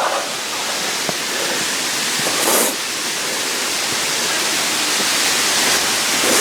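Steady rushing water of a waterfall, an even hiss, with a short louder burst of noise about two and a half seconds in.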